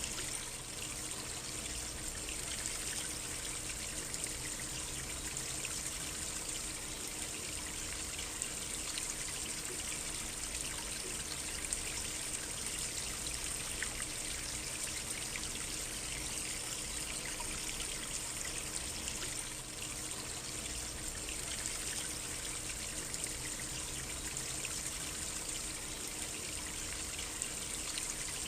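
A small stream trickling and babbling steadily over stones.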